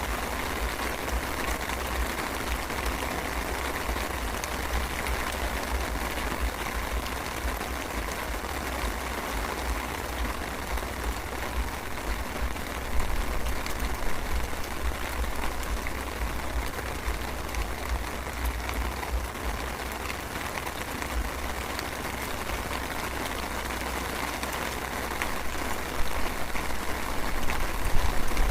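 Light drizzle falling steadily, an even patter with a low rumble underneath, a little louder twice.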